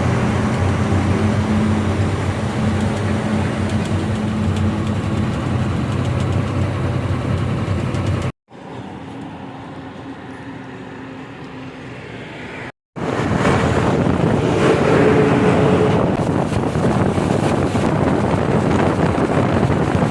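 Truck engine running with road and traffic noise, in three stretches split by two abrupt cuts; the middle stretch is quieter.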